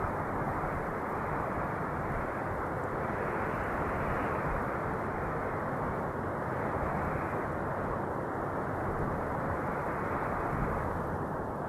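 Wind noise: a steady, dense hiss with no high treble, swelling and easing gently every few seconds.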